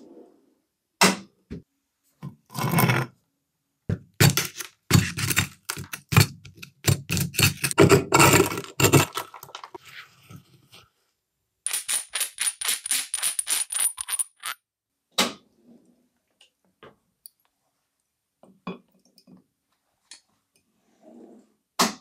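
Metal parts and tools being handled on a workbench: scattered clinks and scrapes, a dense clatter in the first half, then a run of quick, evenly spaced clicks with a faint high ringing tone, and a few light knocks near the end.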